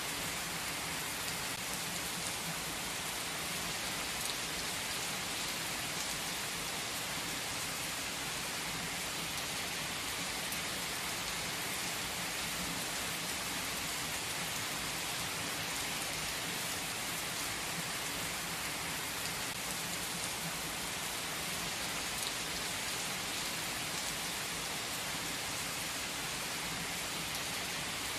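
Heavy rain pouring onto paved asphalt: a dense, steady hiss of drops splashing.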